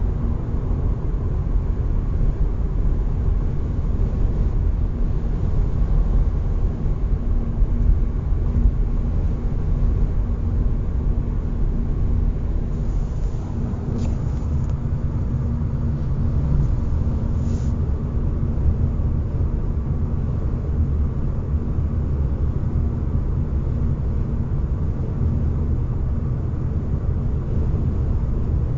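Road and cabin noise inside a 2021 facelifted Hyundai Ioniq driving at speed, with a steady hum and a fainter higher whistle over it. The owner says this noise grows louder with speed and is the same in neutral and on both summer and winter tyres, so its source is unknown; the dealer says every car makes it.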